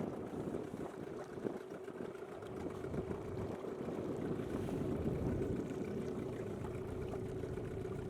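Dinghy outboard motor running at a steady speed, with a constant engine hum and water noise under it.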